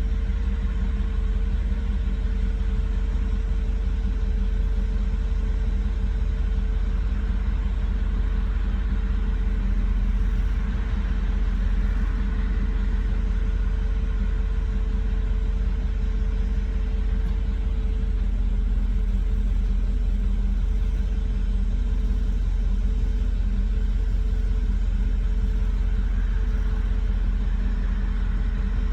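Car engine idling steadily at a high, rough idle, the fault the owner has not cured by replacing all the sensors, with no trouble codes set. A thin steady whine runs along with it, weakening about two-thirds of the way through.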